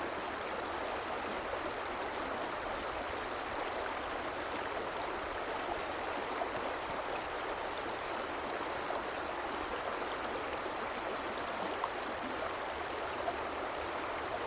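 Fast-flowing mountain stream rushing steadily over rocks.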